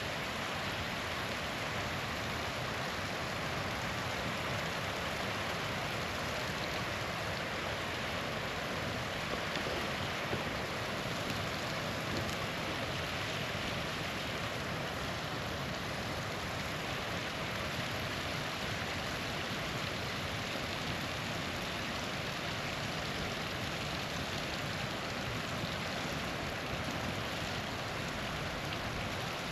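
Small waterfall splashing and rushing steadily, with a few faint ticks from a small crackle now and then.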